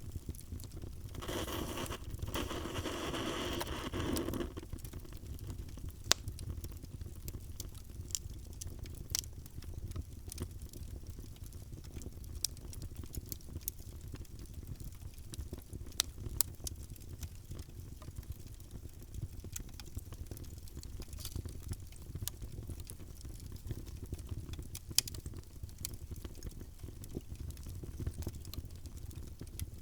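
Wood fire burning in a fireplace: a steady low rumble with scattered small crackles and a few sharp, louder pops. Near the start a hissing surge lasts about three seconds.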